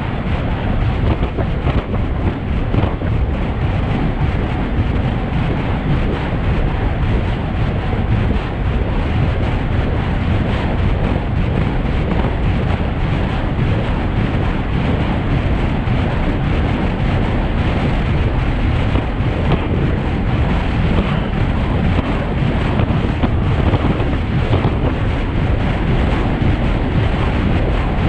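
Wind buffeting the microphone of a road bike descending at speed: a loud, steady, deep rush of noise.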